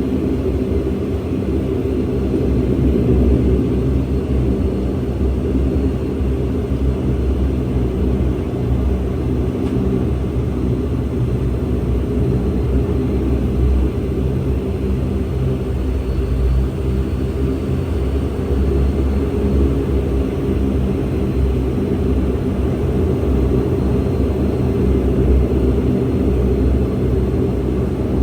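Cabin noise of a Bombardier Dash 8 Q400: its Pratt & Whitney PW150A turboprop engines and propellers make a steady drone with a low rumble and several constant low hums underneath.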